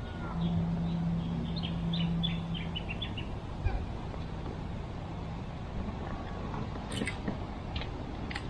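Birds calling, a quick run of short chirps about a second in, over steady outdoor background noise with a low hum. Two sharp clicks come near the end.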